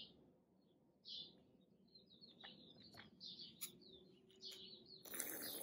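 Small birds chirping faintly in short, repeated high calls, with a few sharp ticks. About five seconds in comes a brief breathy hiss.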